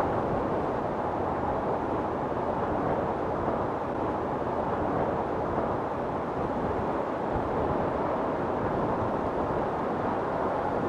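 Storm wind blowing steadily, a low, even rushing with no breaks or sharp sounds.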